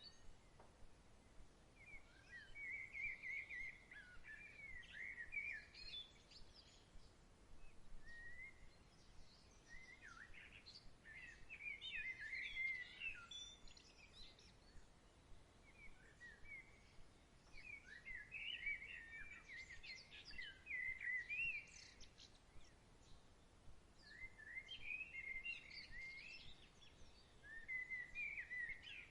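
A songbird singing long warbling phrases of quick chirps, four phrases a few seconds apart, faint over a soft hiss of outdoor background.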